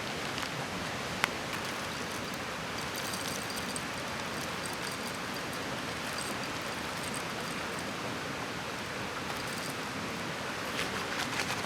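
Steady rushing of a mountain stream, with a single sharp click about a second in and faint high chirps on and off in the middle.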